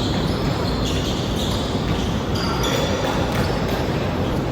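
Basketball bouncing on a court over a steady background noise.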